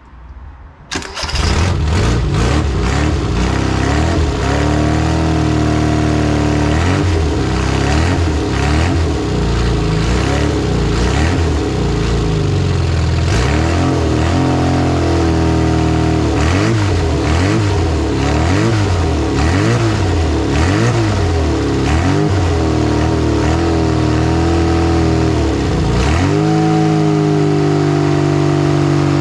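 Freshly rebuilt 1380 Classic Mini A-series four-cylinder engine on a test stand, starting for the first time: it catches about a second in and runs with the throttle repeatedly raised and dropped, then settles into a steady idle near the end. It is running without coolant on its first start after rebuild.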